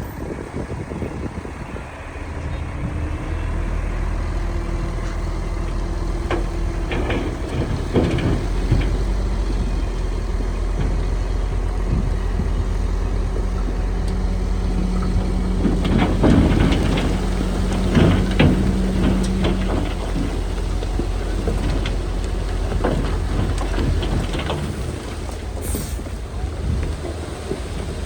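Heavy diesel earthmoving machinery, a bulldozer with dump trucks, running steadily with a low rumble and a held engine tone, with scattered knocks and clanks that are loudest about halfway through.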